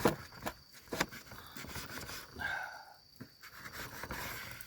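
Opinel folding knife cutting fatty mackerel, with a few sharp knocks and scraping sounds in between.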